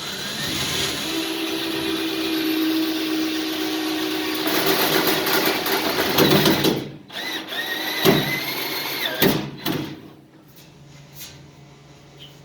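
Power drill running under load for several seconds, stopping, then spinning up again briefly with a rising whine, followed by a few clicks.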